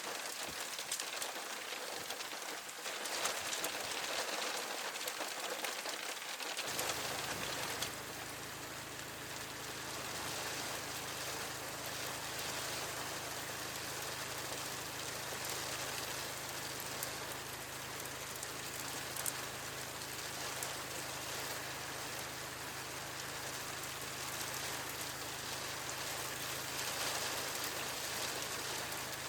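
Steady rain falling, an even hiss throughout; about seven seconds in, a low steady hum joins it.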